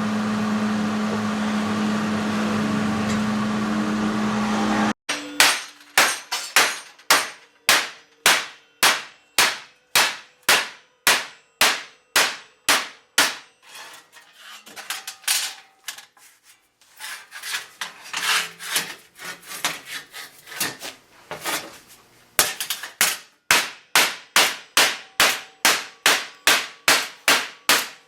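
A steady machine hum for the first few seconds, then rapid hammer blows on metal, about two to three ringing strikes a second in long runs with a short lull in the middle: a racket.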